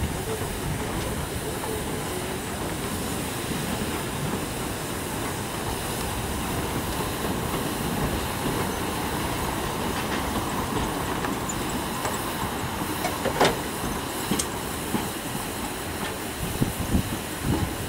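Narrow-gauge train's coaches and goods wagons rolling past on the track and away, a steady running noise from the wheels with a couple of sharp clicks a little after halfway.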